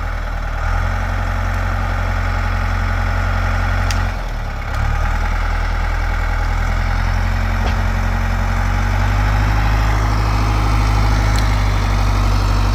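Engine of a heavy earthmoving machine running steadily as it lifts a tree, dipping briefly about four seconds in and growing a little louder for the last few seconds.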